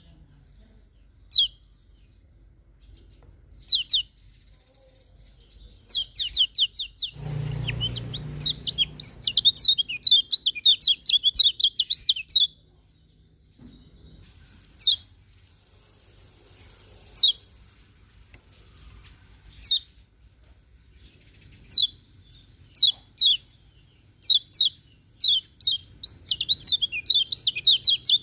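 Kecial kuning white-eye chirping: short, sharp, falling high notes, some single and spaced a few seconds apart, others in quick rapid runs about eight seconds in and again near the end. A brief low rustling noise comes about seven seconds in.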